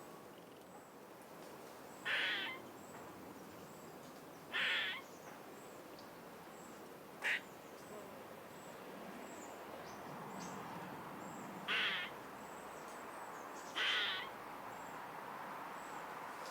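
A bird calling five times, a short call every two to five seconds, over a steady background hiss of outdoor ambience, with faint thin high chirps in between.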